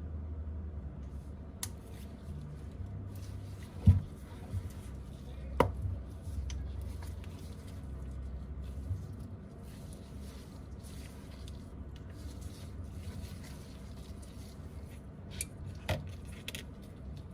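A few sharp taps or clicks, the loudest about four seconds in, over a steady low hum.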